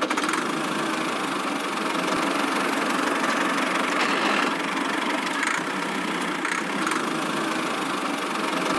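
A small motor of a miniature machine running steadily, a continuous mechanical buzz with no change in speed.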